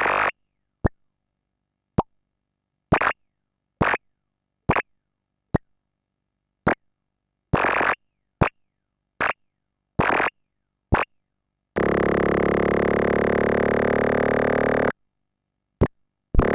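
The 'Frog' semi-modular synthesizer, with two oscillators, a sample-and-hold and a multi-mode filter, playing about a dozen short blips and bursts at uneven intervals, some tiny clicks and some a fraction of a second long. Near the end it holds a steady buzzy tone for about three seconds, then gives another blip and starts a new tone.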